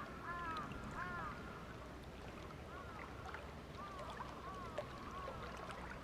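Birds calling: a series of short calls that rise and fall in pitch, several in quick succession about a second in, then more scattered ones later, over a steady low background noise.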